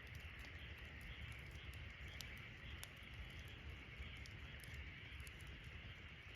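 Wood campfire burning, with a few sharp crackling pops spread through it over a steady background hiss and low rumble.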